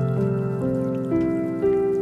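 Soft jazz piano playing a slow broken chord, a new, higher note sounding about every half second and ringing on, with rain pattering faintly behind it.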